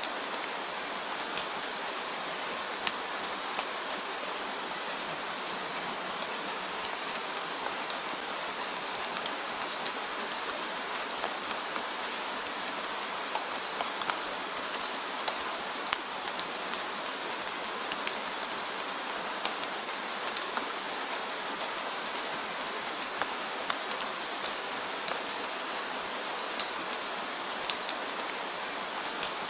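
Steady rainfall: an even hiss of rain with many individual drops ticking sharply on a surface.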